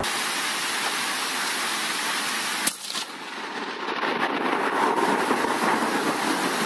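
Heavy downpour hissing steadily, with one sharp crack a little over two and a half seconds in.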